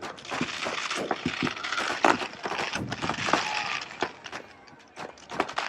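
Crackling fireworks: a dense run of many sharp pops over a hiss for about four seconds, dying away, then a few scattered pops near the end.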